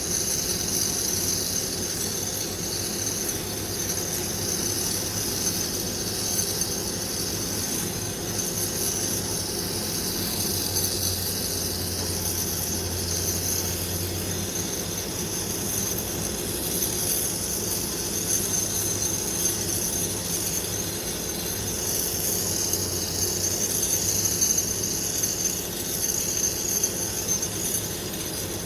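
Gas burner heating the babbitt work, running with a steady hiss and roar that does not change.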